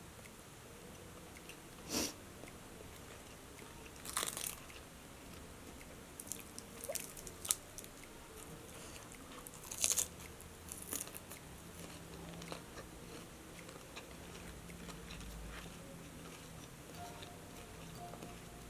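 Close-up crunchy bites and chewing of crispy fried chicken (ayam geprek): sharp crunches about 2, 4 and 10 seconds in, with a cluster of smaller ones between, growing sparse in the second half.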